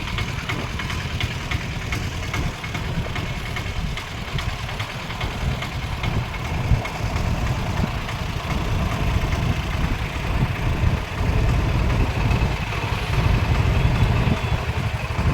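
A vehicle's engine running steadily with a continuous low rumble.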